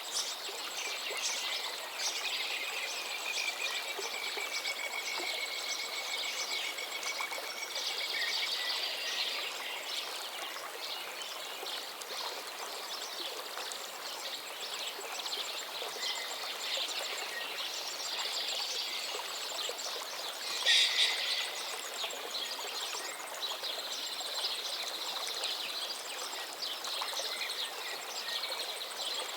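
Many birds chirping and singing over the steady rush of a stream, with one louder burst of song about two-thirds of the way through.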